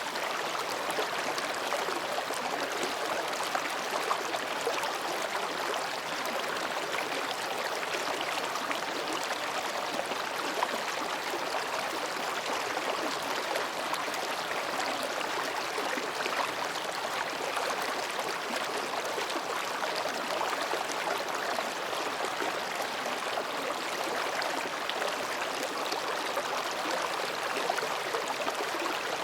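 Mountain stream babbling steadily as it flows between rocks, a continuous rush of water.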